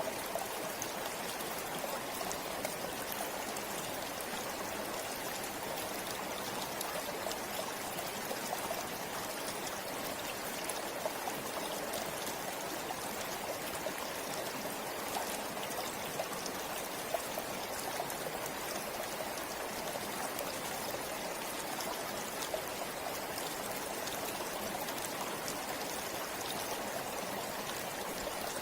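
A forest river flowing steadily, an even rush of water with small splashes and trickles over rocks.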